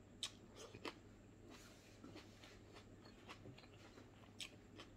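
Faint, scattered mouth clicks and smacks of a person chewing food, a few sharper ones standing out over a quiet room hum.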